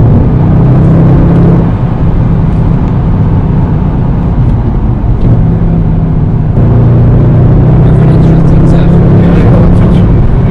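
Mercedes C63 AMG's V8 engine running steadily while driving, heard from inside the car as a loud, even low drone.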